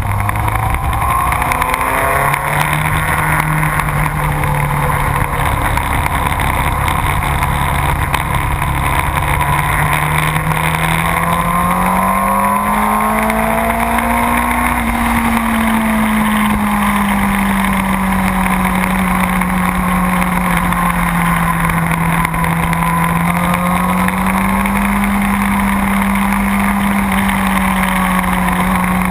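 Motorcycle engine running under load, its pitch stepping up about two seconds in, climbing slowly to a peak around the middle, easing off, then rising again near the end.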